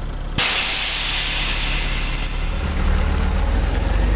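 School bus engine running, with a sudden loud hiss of air from its brakes about half a second in. The hiss fades slowly while the engine grows louder near the end, as if pulling away.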